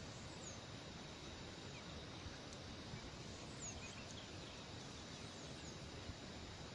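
Faint outdoor ambience: a steady hiss with a few scattered, faint, high falling bird chirps.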